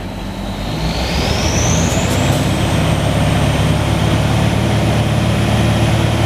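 Well-drilling rig's engine coming up to speed, its sound building over about two seconds. A high whine rises in pitch, then the rig runs on steady and loud.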